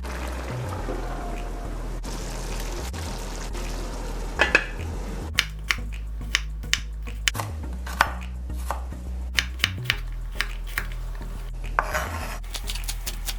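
Utensil knocking and clinking against a cooking pot, in an irregular run of sharp clicks that starts about four seconds in, as fried hassa is placed on top of cook-up rice.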